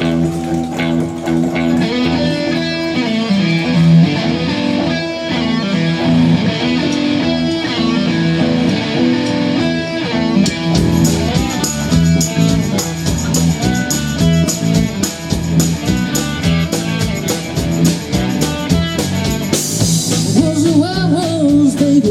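Live band playing the instrumental opening of a blues-rock song, led by guitar; a regular drum beat with cymbal strikes comes in about halfway through.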